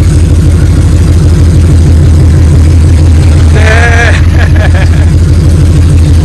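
Freshly swapped 6.0-litre V8 engine idling steadily and loudly, with an even pulsing rhythm. It is the newly installed engine running after its first start.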